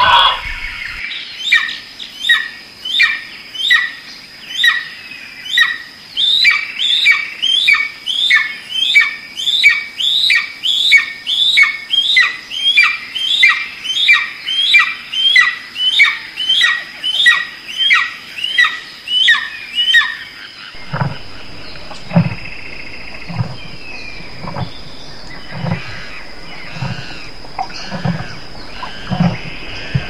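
A bird calling over and over, a sharp high call repeated evenly a little under twice a second for about twenty seconds. It then gives way abruptly to soft low thumps, about one every 0.7 seconds.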